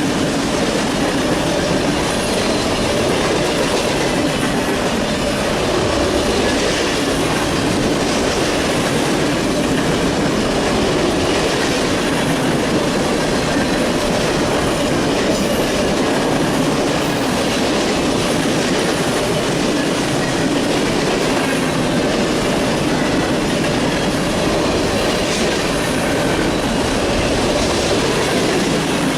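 Freight cars of a Norfolk Southern unit sulfur train rolling steadily past, wheels clacking over the rail joints.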